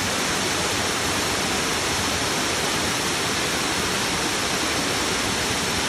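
Waterfall flowing: a steady, even rush of falling water.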